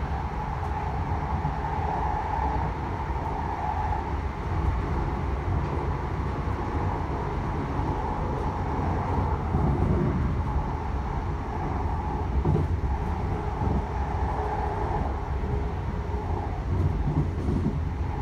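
Class 321 electric multiple unit at speed, heard from inside the carriage: a steady low rumble of wheels on the rails with a mid-pitched hum over it, and a few light knocks from the running gear.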